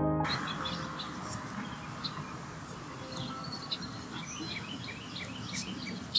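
Birds chirping: many short, high chirps scattered over a steady outdoor background hiss.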